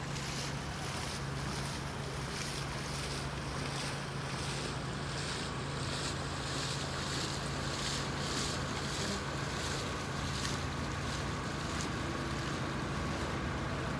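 Steady low rumble of train engines on the railroad, with wind buffeting the microphone. A faint steady whine joins about halfway through.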